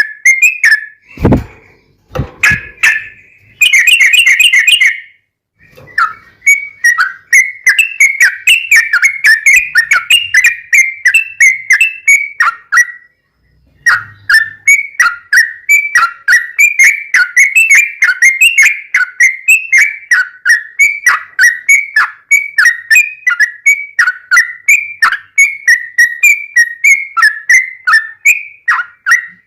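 Sooty-headed bulbul (trucuk) singing a fast, unbroken string of short whistled notes at much the same pitch, with a brief pause about 13 seconds in.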